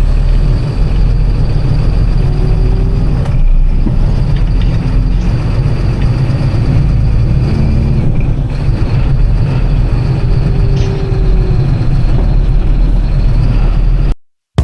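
Septic pump truck driving, its engine and road noise making a steady low rumble; it cuts off suddenly near the end.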